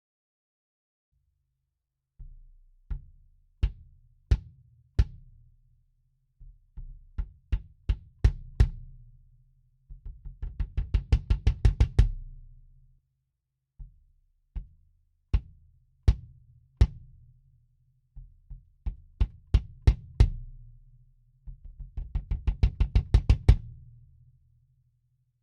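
A 22-inch kick drum with an Evans EMAD2 batter head, muffled by a pillow inside and an EMAD foam ring, is played alone and picked up by an AKG D112 inside the drum and an Audix D6 outside. It starts with single strokes about a second apart, then quicker groups, then a fast run of strokes that grows louder. The whole pattern then comes round a second time.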